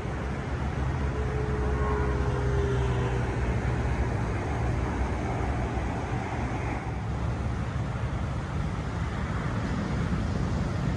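Steady low rumbling outdoor noise, with a faint short tone that falls slightly about two seconds in.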